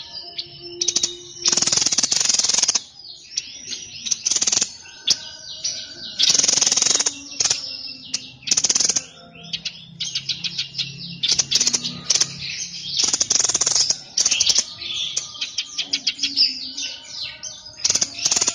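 Songbird known to Indonesian bird keepers as the 'sniper' bird, singing hard. Loud bursts of rapid, high chattering notes about a second long come every couple of seconds, with softer chirps and short notes between them.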